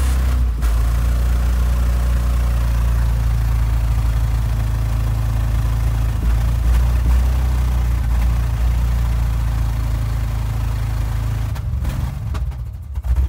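Truck engine running at a steady, held speed with a hiss over it, breaking off and changing near the end.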